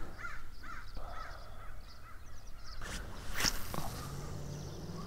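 A bird calling: a quick run of short, rising-and-falling calls in the first second or two, then a brief sharp swishing noise about three seconds in.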